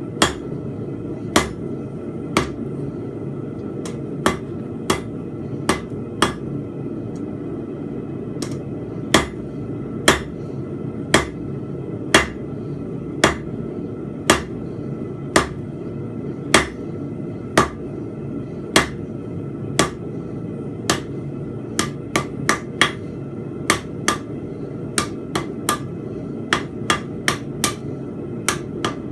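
Blacksmith's hammer striking a hot steel bar on an anvil while forging a fence peg, about one blow a second, quickening into faster, lighter blows in the last third. A steady low rush of noise runs under the strikes throughout.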